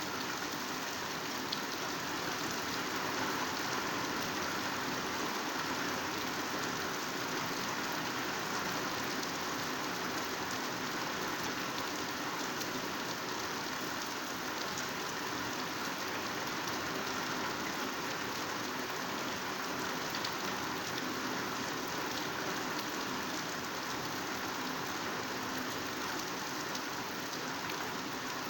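Heavy rain falling steadily on foliage and ground, a dense even hiss with scattered faint drop ticks.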